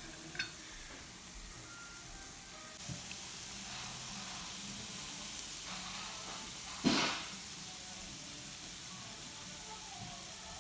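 Fried dumplings frying in hot rapeseed oil in a pan, a steady sizzle. A small click near the start and a loud, sharp knock about seven seconds in.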